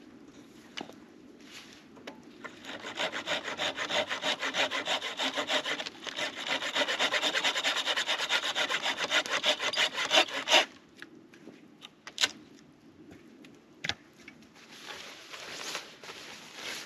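A hand saw cutting through wood with quick, even strokes. It starts about two and a half seconds in, pauses briefly, and stops about ten and a half seconds in, followed by a few scattered knocks.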